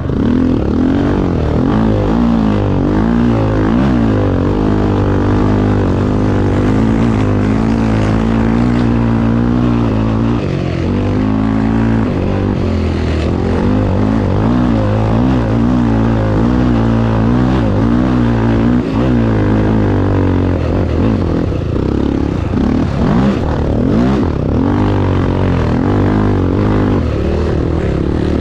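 Honda Tornado 250 single-cylinder motorcycle engine running hard, its pitch rising and falling again and again as the throttle is opened and closed.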